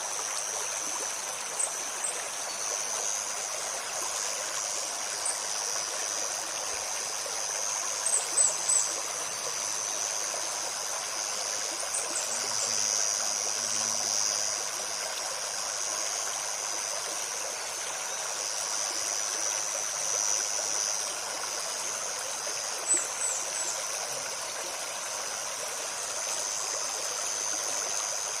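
A small forest stream flowing and trickling steadily, with a steady high insect drone over it and a few short, high bird chirps here and there.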